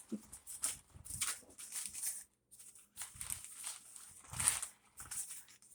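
A Chihuahua playing with a cat toy: short, scattered scuffing and rustling, with a louder bump about four and a half seconds in.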